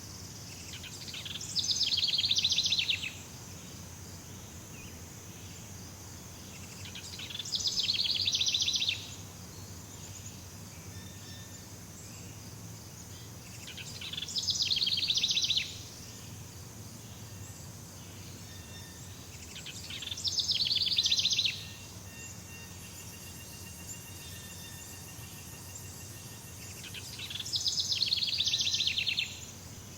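Tropical forest ambience: a steady high insect drone, over which a rapid pulsed trill call swells and cuts off abruptly, five times at about six-second intervals.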